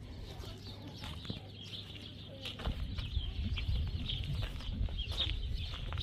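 Birds chirping in short, high calls, with a low rumble coming in about halfway through.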